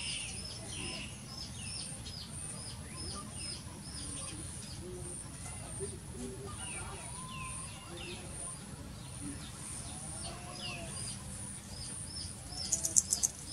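Small birds chirping over and over, short high descending notes several times a second, over a steady outdoor background hum. A quick cluster of sharp clicks comes near the end.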